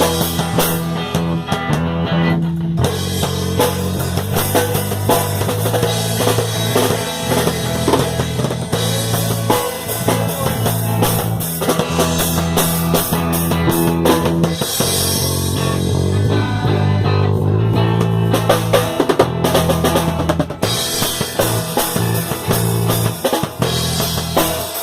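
Live band music: a drum kit keeping a steady beat of bass drum and snare over a held bass line.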